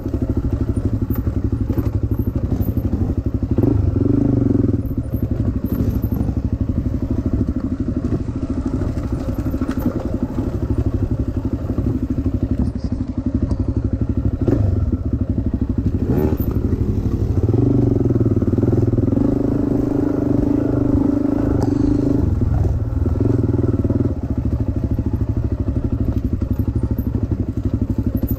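Dirt bike engine running while being ridden, pulling harder for a few seconds twice, with occasional knocks and clatter from the bike over rough ground.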